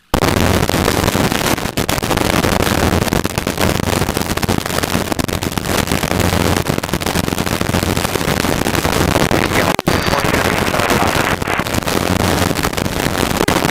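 Helicopter cabin noise in level cruise: a loud, steady rush of rotor and engine noise with a constant low hum. There is one very brief dropout about ten seconds in.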